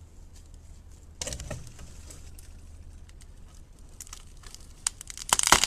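Beaver gnawing into a tree trunk with its teeth: scattered crackles and a short burst of crunching about a second in, then loud, dense crunching of wood near the end.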